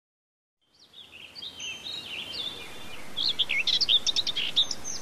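Birds chirping and calling, fading in after a brief silence and growing louder and busier, over a steady hiss.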